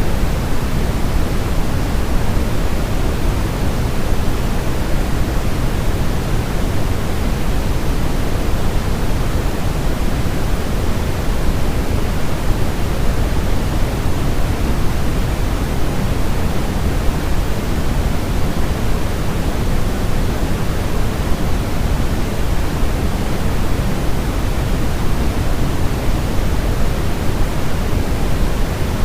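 Steady white noise for baby sleep: an even, unchanging hiss, weighted toward the low end so it sounds deep and full rather than thin.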